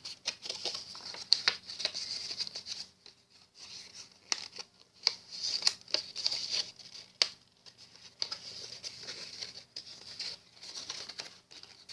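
A sheet of paper being folded and creased by hand: irregular crinkles, rustles and small taps.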